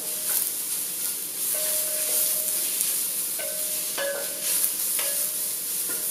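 Sliced red onions and garlic sizzling in hot coconut oil while a wooden spatula stirs them around the glass pot. The stirring gives short squeaks and light knocks every second or two over a steady hiss.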